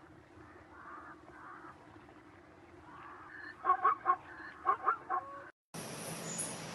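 Birds calling: soft repeated calls, then a run of about five loud, short calls in the second half. Near the end the sound cuts off and gives way to a steady hiss.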